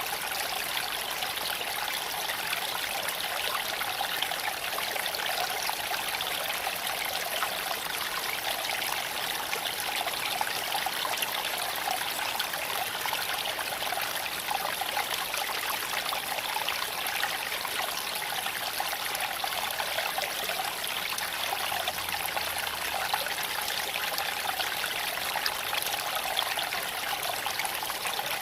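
Small creek flowing over stones, a steady babbling and trickling of water.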